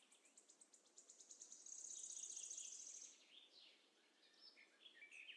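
Faint birds calling: a fast, high trill over the first three seconds, then scattered short falling chirps.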